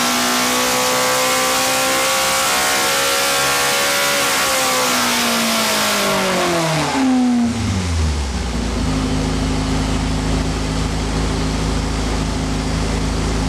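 Race-tuned Alfa Romeo Twin Spark 2.0 16V four-cylinder engine held at high revs. About four seconds in the revs start to fall, and it settles to a steady idle about halfway through.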